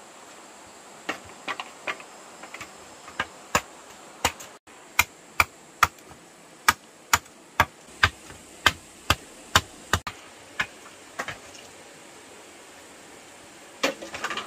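A run of sharp, separate knocks, scattered at first, then about two a second for several seconds, stopping about ten seconds in, with a short quick cluster near the end.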